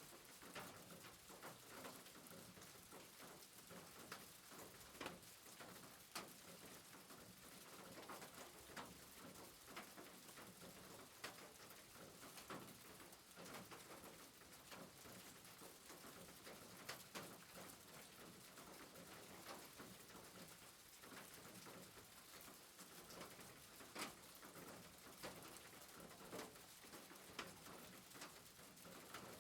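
Faint soft rain: a steady hiss with scattered drops ticking irregularly.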